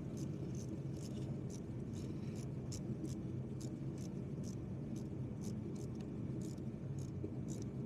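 Ratchet wrench clicking faintly, about three ticks a second, as a spark plug in a 3.5 EcoBoost V6 is run down and tightened, over a steady low hum.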